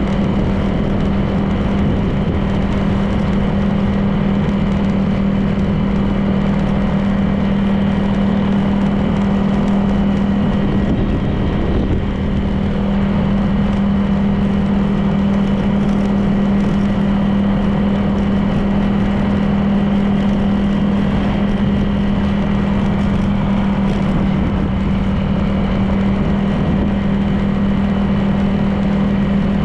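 Honda PCX 160 scooter's single-cylinder engine running at a steady cruising speed, a constant low hum under road noise.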